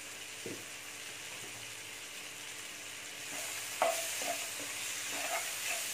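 Onions, tomatoes and spices sautéing in a non-stick kadai, sizzling steadily. About three seconds in, a steel spoon starts stirring them, scraping and knocking against the pan as the sizzle grows louder.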